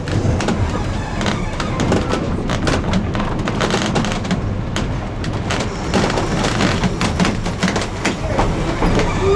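Heritage railroad passenger car rolling along the track: a steady low rumble with frequent irregular clicks and knocks from the wheels and car.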